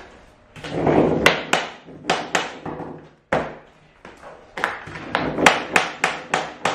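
Cork floor plank being knocked tight at its click-lock joint, a series of sharp taps on a tapping block cut from leftover flooring, coming in quick runs of several knocks. A short scraping sound comes just before the first taps.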